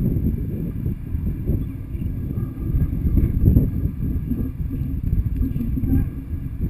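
Low, uneven rumbling noise on the camera microphone, rising and falling in strength, with no clear tone or distinct impacts.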